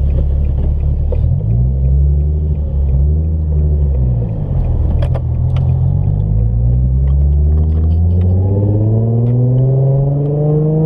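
Nissan sports car's V6 with a loud aftermarket exhaust under load: the engine note dips and swells for a few seconds, then climbs steadily in pitch as the car accelerates hard.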